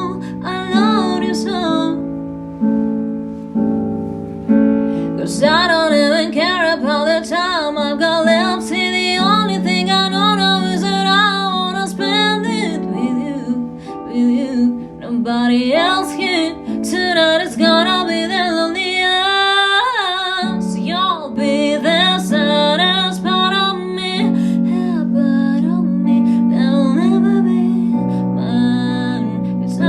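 A woman singing a song over instrumental accompaniment of plucked strings and keys.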